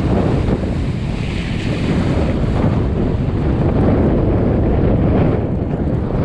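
Steady wind buffeting a head-mounted GoPro microphone, with water rushing along the hulls of a Hobie Wave catamaran sailing in strong wind.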